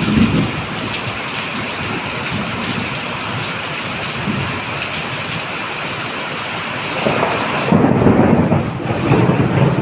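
Steady rain falling, with thunder rumbling; a louder roll of thunder builds about seven seconds in.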